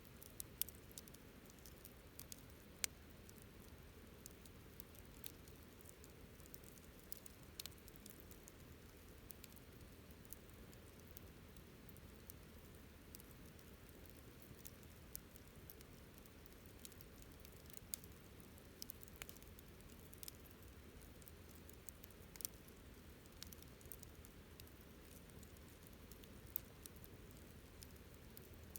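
Wood campfire crackling softly: scattered small irregular snaps and ticks over a faint low rumble, with a few sharper pops standing out.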